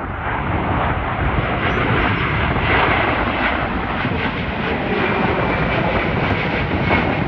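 A Boeing 767-400ER's twin General Electric CF6 turbofans passing by, a loud, dense jet noise that builds slightly over the first few seconds, with a faint high whine on top.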